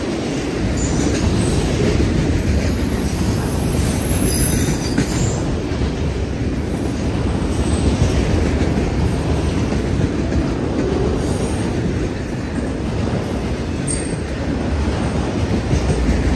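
Freight train of autorack cars rolling steadily past on the rails: a continuous rumble and clatter of wheels on track, with faint high-pitched wheel squeals that come and go.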